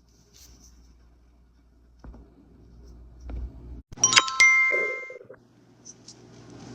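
Short electronic chime about four seconds in: several bell-like tones struck together, ringing for about a second, over faint low room noise.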